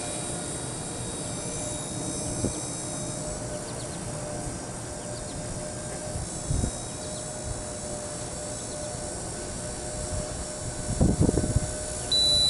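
Blade mCP X micro RC helicopter's rotors and electric motor whining steadily, with wind buffeting the microphone a few times, hardest about eleven seconds in. A short high beep sounds near the end.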